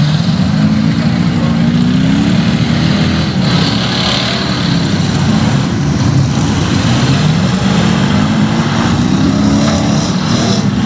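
A Chevy mega truck's engine running loud under throttle, its pitch climbing over the first few seconds and again from about seven seconds in as it revs up.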